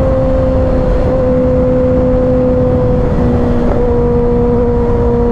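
2024 Kawasaki Ninja ZX-6R's inline-four engine running at high revs at freeway speed, a steady high drone whose pitch sags slightly over a few seconds, over heavy wind rush.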